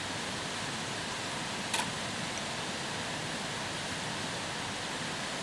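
Steady rushing outdoor background noise, even and without tone, with a single sharp click a little under two seconds in.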